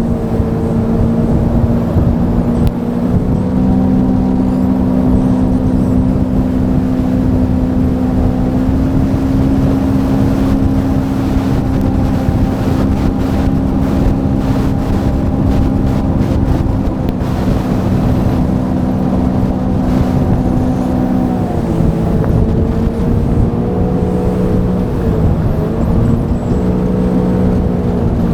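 Sea-Doo Fish Pro jet ski engine running steadily at cruising speed over a rush of wind and water. Its pitch dips briefly about three-quarters of the way through as the throttle is eased, then it runs on at a slightly different pitch and falls again at the very end.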